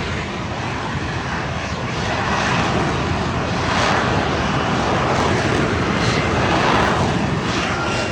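Jet engine noise from a hovering vertical-takeoff military jet: a loud, steady rush with slowly sweeping, swirling changes in tone, swelling a little through the middle.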